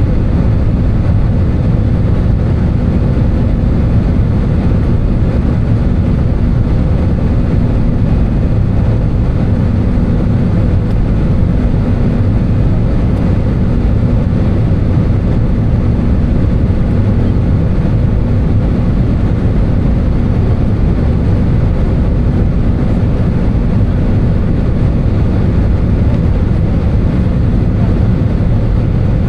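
Steady cabin noise of an Airbus A320 in flight, heard from a window seat: a constant engine drone with a few steady low hum tones over the rush of airflow.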